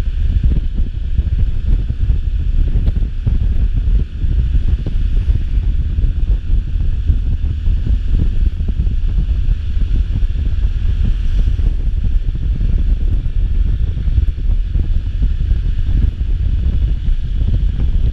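Wind buffeting the microphone: a steady, loud low rumble with a thin hiss above it.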